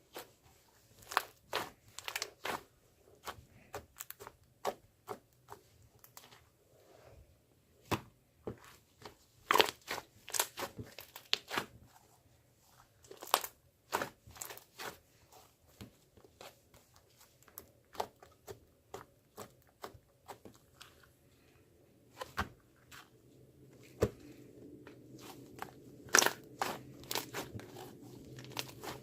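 Irregular sharp clicks and crinkling crunches, close up.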